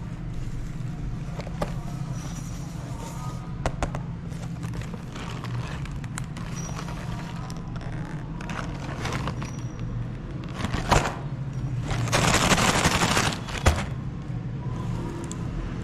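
Meat grinder running over a steady low hum, crunching and crackling through frozen ice cream bars with scattered sharp cracks. About twelve seconds in it briefly gets louder and harsher.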